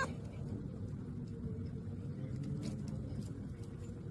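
Treadmill running: a steady low motor hum and belt rumble, with a few faint ticks.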